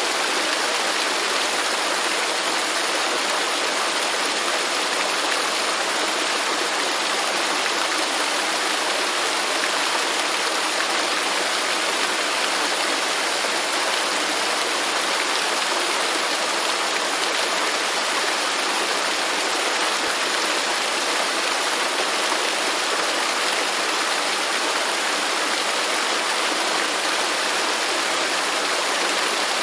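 Waterfall rushing, a steady, even spray of water noise without pauses or changes.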